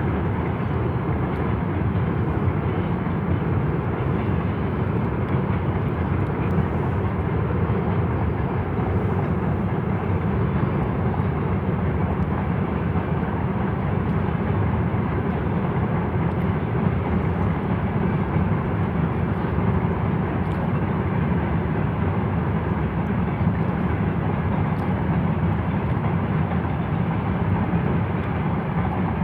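Steady running noise of a freight train rolling across a long railway bridge, even in level throughout with no distinct wheel clicks.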